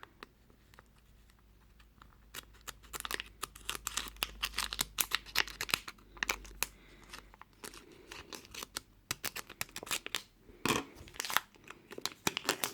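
A plastic packet crinkling and tearing as it is cut open with scissors, a dense run of irregular crackles and snips starting about two seconds in.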